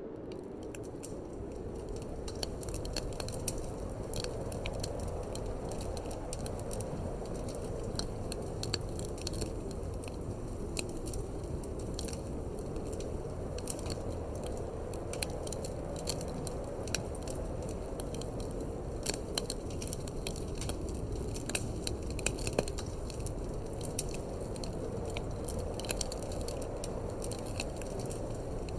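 Wood fire crackling in a fireplace, with sharp irregular pops and snaps, over a steady low rush of wind.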